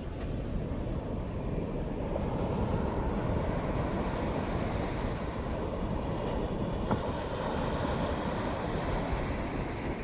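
Steady outdoor rushing noise, heaviest in the low range, with a single faint click about seven seconds in.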